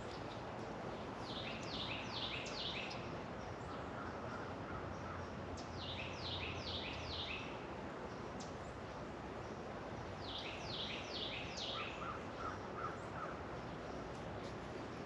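Songbird singing: a quick run of about six downward-sliding chirps, repeated three times, with a softer run of short, even notes twice between them, over a steady background hiss.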